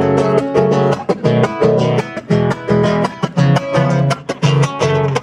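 Acoustic guitar music, strummed in a brisk, even rhythm: an instrumental passage between sung lines of a folk song.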